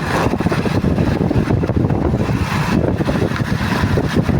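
Motorcycle on the move: engine running under a steady rumble of wind on the microphone.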